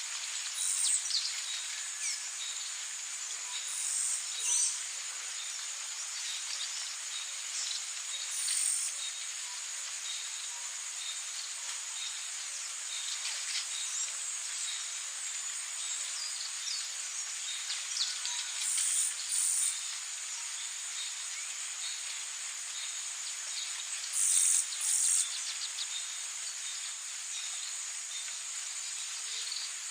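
Rainforest ambience: a steady high-pitched insect drone, with short loud high bursts from calling insects every few seconds, several coming in pairs, and scattered faint bird chirps.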